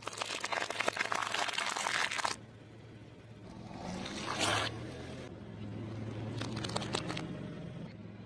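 Food crushed under a car's tyre: dense crunching and crackling for about two seconds, then a wetter squishing swell, over the low hum of the car's engine. A few more crackles come near the end.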